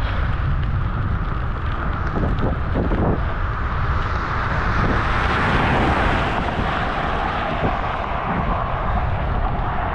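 Wind rumbling on a bicycle-mounted GoPro's microphone with road and tyre noise while riding. A broad whoosh swells and fades around the middle.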